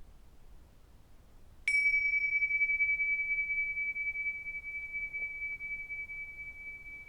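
A small high-pitched metal bell or chime struck once about two seconds in, ringing one clear high tone that fades slowly and is still sounding at the end.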